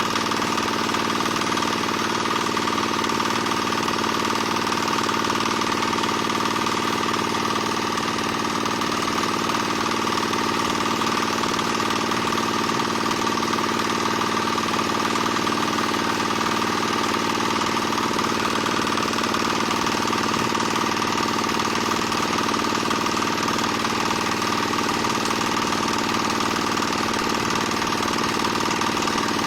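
Small diesel engine driving a single-screw palm oil press, running steadily without change.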